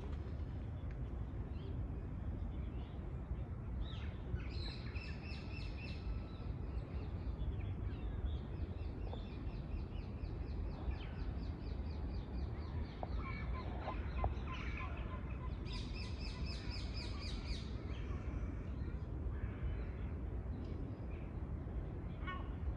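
Songbirds singing in fast, high trills, one phrase about four seconds in, a long run from about seven to thirteen seconds, and another near sixteen seconds, over a steady low rumble.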